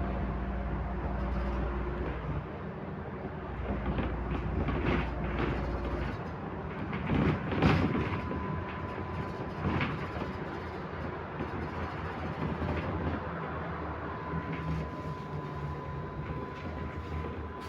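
Interior of a MAZ-105 articulated city bus on the move: engine drone and road noise, with rattles and knocks from the body. The deep engine drone drops away about six seconds in, and a cluster of knocks and clatter follows just after.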